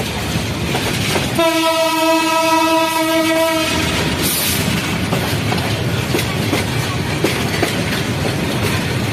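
A train's horn sounds once, a single steady note held for about two seconds, about a second and a half in. A brief hiss follows. Under it, a train runs on the rails with a steady rumble and clatter.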